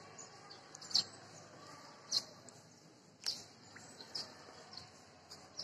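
Birds chirping: short, sharp chirps about once a second over a faint steady hiss.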